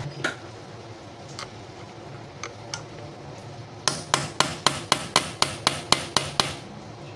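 Hammer tapping metal on a motorcycle ignition lock as it is opened up: a few scattered light clicks, then a quick even run of about eleven sharp taps, about four a second.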